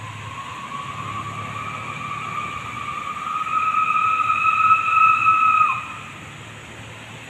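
One long, drawn-out whistled note that rises slowly in pitch and grows louder, then breaks off with a brief downward slide about six seconds in.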